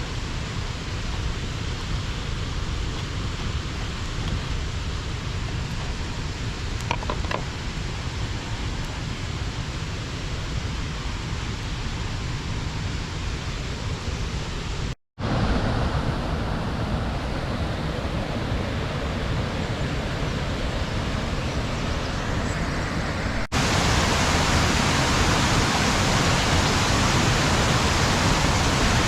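Steady rush of water pouring over a small river dam. It cuts out for an instant about halfway, then comes back louder and brighter near the end.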